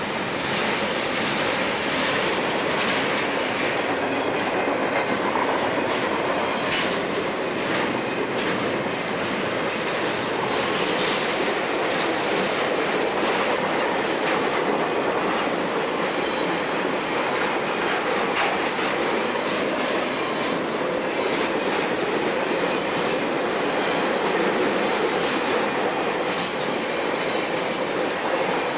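Norfolk Southern freight train rolling past at speed: a steady rumble of cars with wheels clicking over the rail joints.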